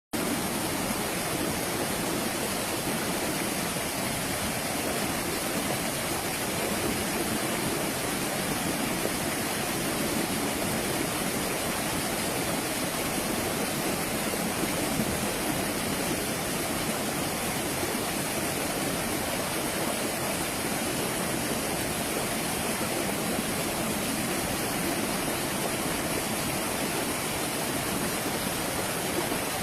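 Stream water rushing and splashing steadily.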